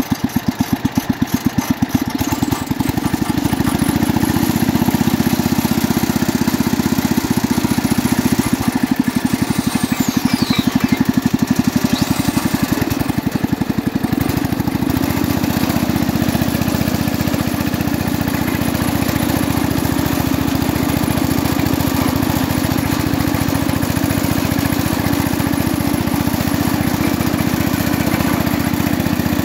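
The 1967 Jacobsen Chief 800 garden tractor's engine running steadily with an even rapid putter, getting louder about two seconds in. It is running on a sonically cleaned carburetor and new fuel line and filter, with its correct muffler fitted.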